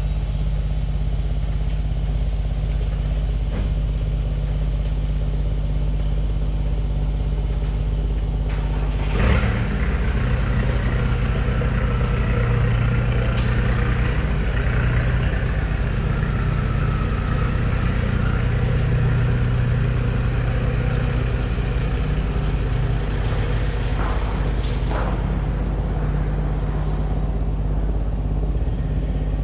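Heavy truck's diesel engine running steadily, then revving up about nine seconds in and holding at higher revs for some ten seconds before settling back.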